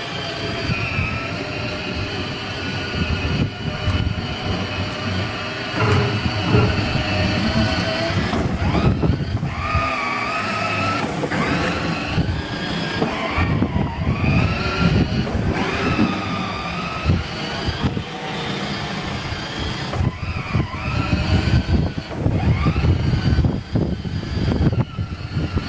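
Children's electric ride-on sports car running, its plastic wheels rumbling on the ground and its motors whining, the whine rising and falling over and over as it turns in circles.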